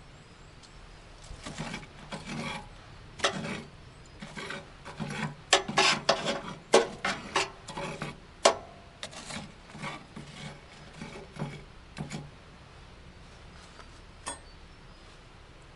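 A run of irregular rasping, rubbing strokes, like something wooden being scraped or rubbed, lasting about ten seconds, then a single sharp click near the end.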